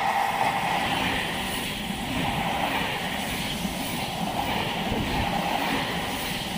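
Italo AGV 575 high-speed electric train passing close along the platform at speed: a steady rush of wheels on rail and air over the train, with a rumble underneath.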